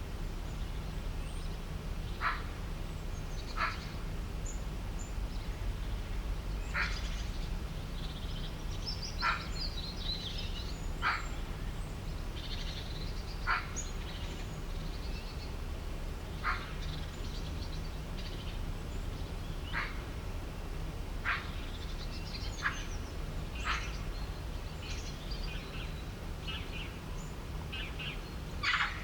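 Birds calling outdoors: a short sharp call repeats every two to three seconds, with higher, quicker chirping between the calls. A low steady rumble runs underneath.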